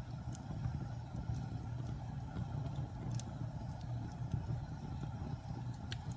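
Wood fire crackling: a steady low rumble of flames with occasional sharp pops.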